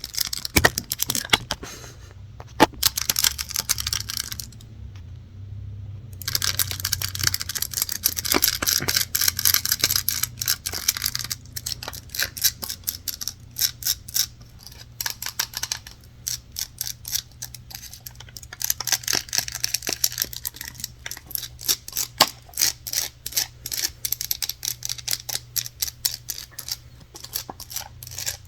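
Rapid ASMR tapping and scratching on hard objects: a quick run of close-up clicks with a brief pause about five seconds in, and stretches of denser scratching.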